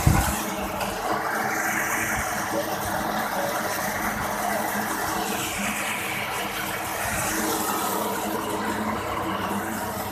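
Motorcycle engine breathing through an aftermarket Creampie exhaust, dropping from a loud rev right at the start and then idling steadily while the exhaust is being tuned.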